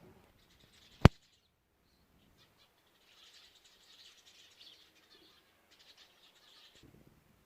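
A single sharp click about a second in, then faint high chirping of small birds.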